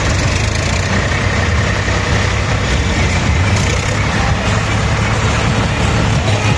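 Tractor diesel engines running steadily in a procession, a continuous low drone with road and engine noise over it.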